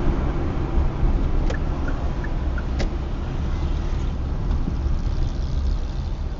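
Steady low rumble of a car driving, picked up by a dashcam, with a couple of sharp clicks about a second and a half and about three seconds in.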